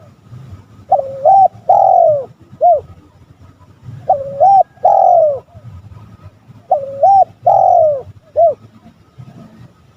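Spotted dove cooing: three repeats of its phrase, about three seconds apart. Each phrase has a short up-and-down note, a longer falling coo and a short closing note.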